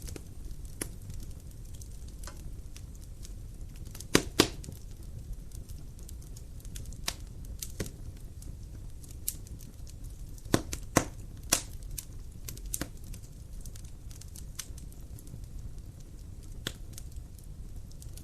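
Wood fire burning in a fireplace: a steady low rumble with scattered crackles and a few sharp pops, two about four seconds in and three in quick succession between ten and twelve seconds in.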